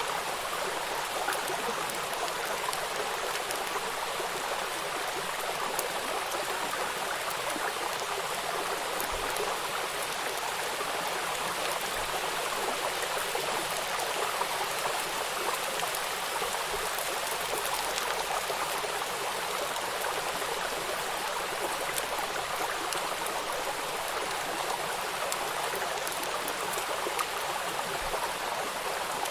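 Steady rush of a flowing river with rain falling on the water, a constant hiss with faint scattered drop ticks.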